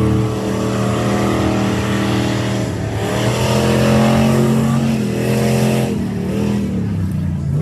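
Rally truck's engine working hard on the course. It revs up about three seconds in and drops back just before six seconds.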